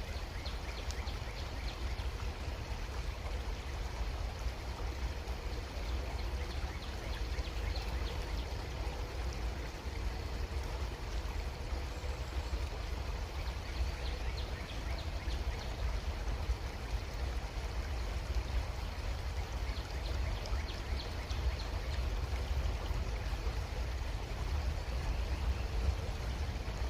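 Creek water running steadily, an even rushing sound with small trickles.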